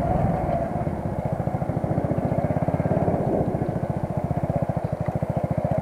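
Vehicle engine running under way, a steady, even, rapid low pulsing from its firing.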